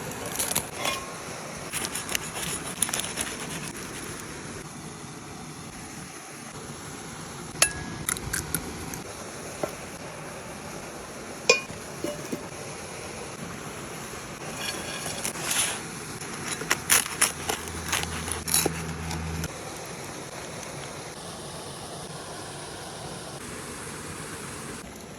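Cookware and utensils clinking and knocking in scattered bursts over a steady background hiss.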